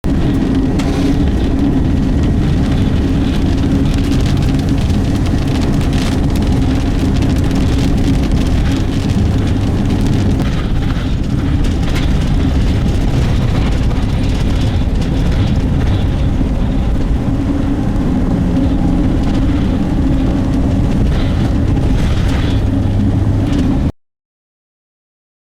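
Steady vehicle noise with a low hum and scattered small taps, which cuts off suddenly near the end.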